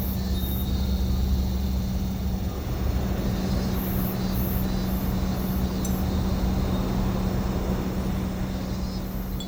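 A steady low mechanical hum with an even rushing noise over it, like a running motor.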